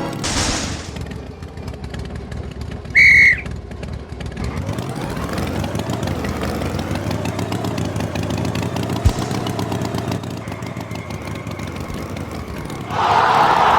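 Tractor engine running steadily, its pitch rising and falling around the middle, with a short, high whistle-like toot about three seconds in.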